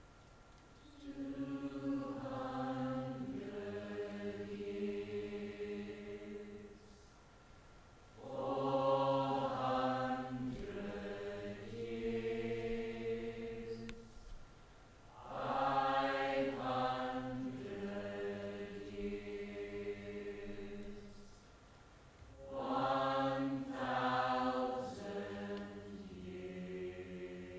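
Choir singing long held chords in four phrases of about six seconds each, with short pauses between them.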